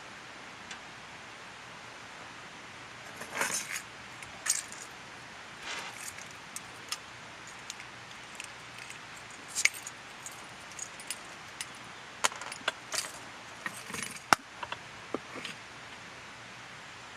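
Irregular light metallic clinks and rattles of camping gear being handled, scattered and uneven, over a faint steady hiss.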